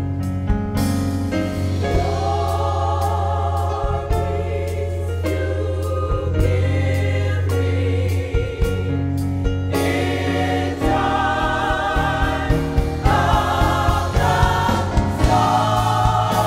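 Gospel choir singing with a band: a steady bass line and regular drum beats.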